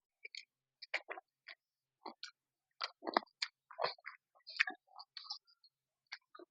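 Close-up eating sounds: chewing with irregular wet mouth clicks and lip smacks as someone eats a fish curry.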